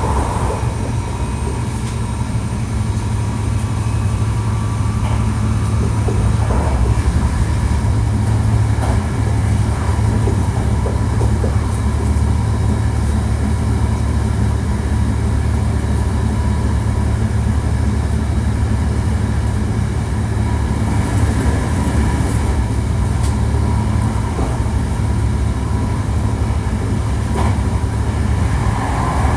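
Hankyu 1300 series electric train running steadily at speed, heard from inside the car: a constant low rumble of wheels and running gear with a few faint clicks over rail joints.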